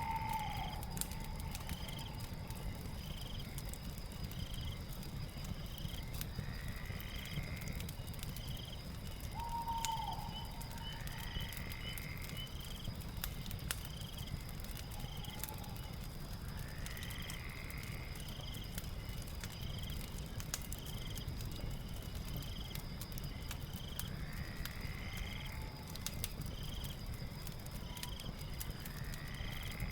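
Night ambience of crackling fire and insects. A steady high insect trill and regular chirps about once a second run over the fire's scattered pops, with a longer call every five seconds or so.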